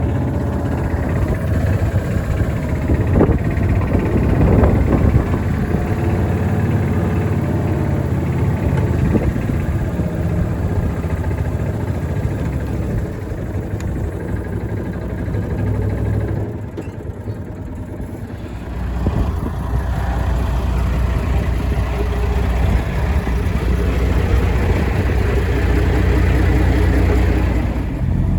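Engine of a tractor or other heavy farm vehicle running steadily. It dips briefly about two-thirds of the way through, then comes back with a deeper, steadier tone.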